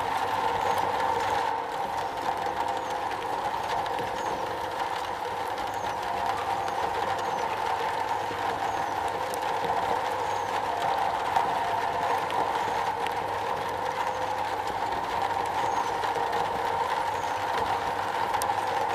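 Steady rain drumming on a metal roof, an even continuous noise with a strong ringing band in the middle range.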